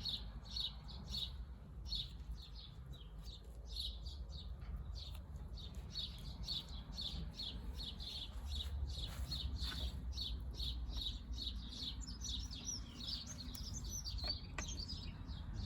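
Small birds chirping continuously, several short high chirps a second, over a low steady hum.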